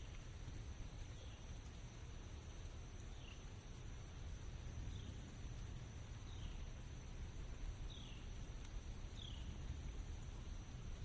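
Rainy forest ambience: a steady hiss with low rumble, a thin high insect drone, and a short falling chirp repeated about every second and a half.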